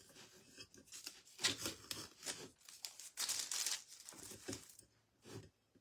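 Masking tape being peeled off a painted metal kettle and crumpled, in several short crinkly tearing rips with pauses between.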